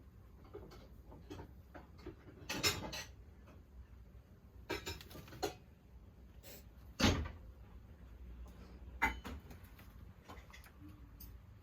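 A string of scattered knocks and clunks, about five louder ones with faint ticks between them, over a low room hum.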